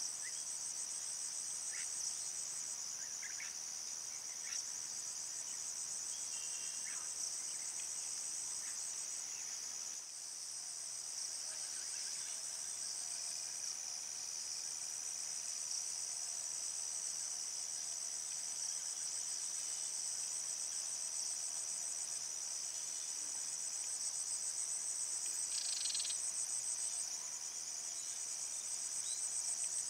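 A dense chorus of insects such as crickets keeps up a steady, high-pitched trill, with a few faint short chirps from other animals scattered through it.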